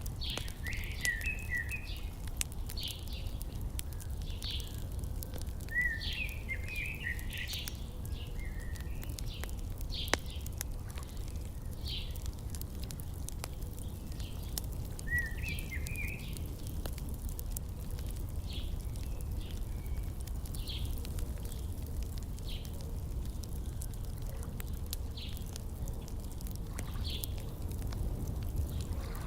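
Outdoor nature ambience: birds chirping in short repeated notes and brief twittering bursts over a steady low rumble, with occasional sharp pops of a crackling wood fire.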